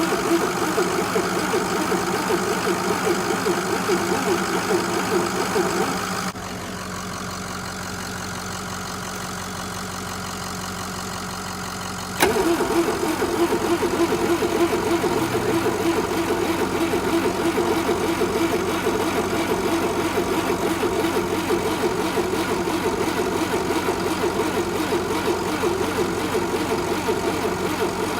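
Diesel engine idling just after a cold start at about 4 degrees, with glow plugs that aren't working. The sound drops off suddenly about six seconds in and comes back louder with a sharp click about six seconds later.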